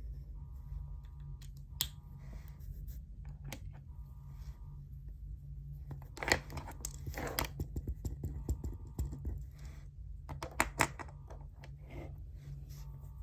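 Paper handled at a study desk: rustling, as of a page being turned, a little after six seconds and again around ten and a half seconds, with light taps and clicks in between, over a steady low hum.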